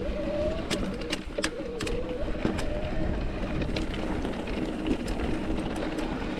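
Mountain bike rolling over a rocky trail: tyre noise with quick clicks and clatters from the bike, and a steady whirring tone that wavers slightly in pitch.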